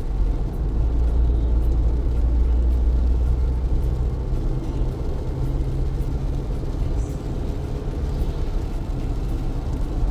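Car driving on wet city streets in heavy rain: a steady low rumble of engine and tyres on the wet road, with a faint hiss of rain above it.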